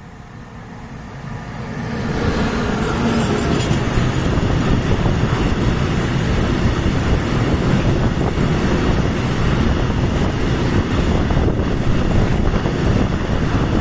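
Freight train hauled by a Bombardier TRAXX locomotive passing close by: the sound grows loud over the first two seconds as it arrives, then holds as a steady heavy rumble of wheels on rail.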